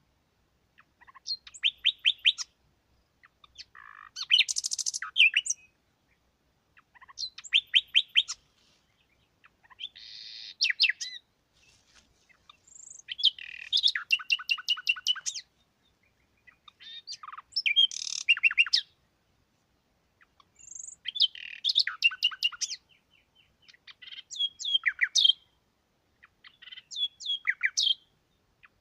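A songbird singing short phrases of rapid repeated chirping notes, about nine phrases, each a second or two long, with clean silent gaps between them.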